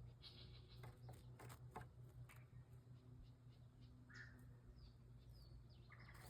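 Near silence, with a few faint, short bird chirps and soft scattered clicks.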